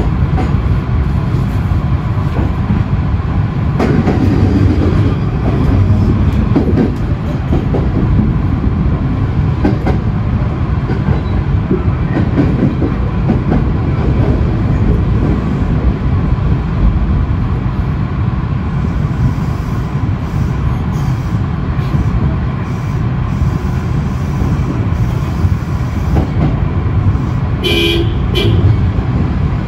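Kintetsu electric commuter train running, heard from inside the car: a steady low rumble of wheels and motors on the rails. Near the end, two short blasts of the train's horn as it enters a tunnel.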